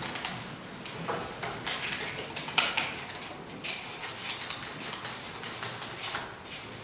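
Woollen mitten rubbed briskly over the lid of a box to charge it with static electricity: an irregular run of scratchy rubbing strokes and light clicks.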